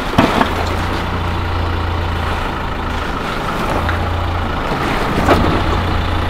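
Nissan Navara ute's engine running at low revs as it crawls over a rock step on a 4WD track, its low note dipping briefly a couple of times.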